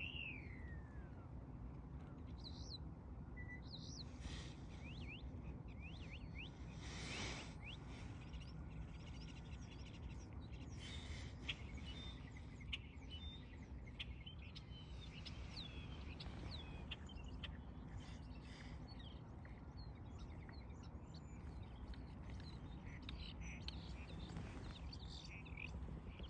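Songbirds chirping, with many short high calls and quick pitch sweeps scattered throughout, over a steady low background noise.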